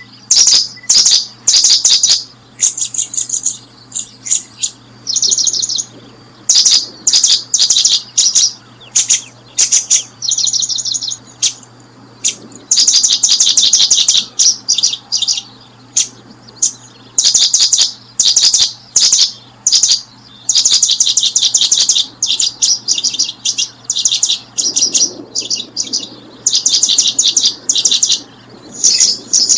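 Small birds chirping: loud, high-pitched runs of rapid chirps following one another with hardly a pause, over a faint steady low hum.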